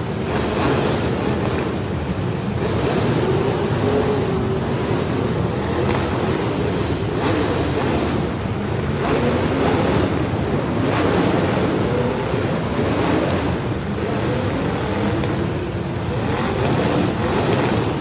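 Several demolition derby cars' engines revving hard at once, their pitch rising and falling, with a few sharp crashes of cars hitting each other.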